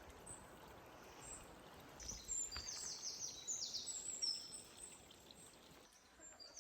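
A small songbird singing several quick runs of high notes from about two seconds in, over a faint, steady rushing background.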